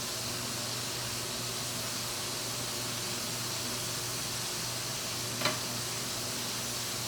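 Wild turkey pieces frying in hot oil: a steady sizzle from the first batch just dropped in. A single sharp click about five seconds in.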